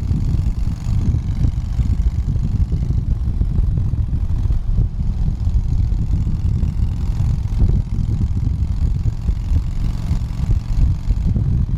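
Motorcycle riding at highway speed: a steady low rumble of engine and rushing air that flutters constantly, with no single event standing out.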